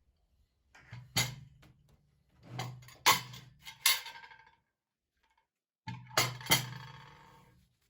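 Dishes and utensils handled in a kitchen: three short runs of sharp clinks and knocks that ring briefly, over a low hum.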